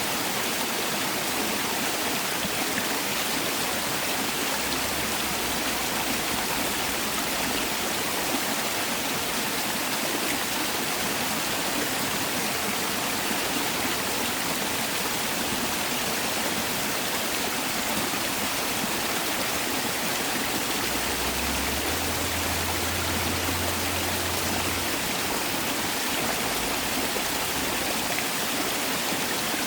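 Mountain stream rushing and splashing over rocks in a valley, a steady, even flow of water.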